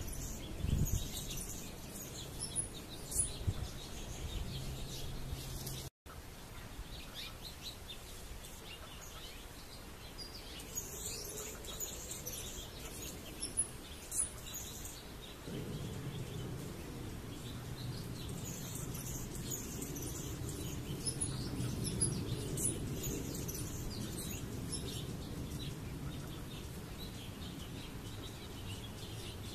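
Birds chirping, with many short, high-pitched calls scattered throughout. A low steady rumble comes in about halfway through.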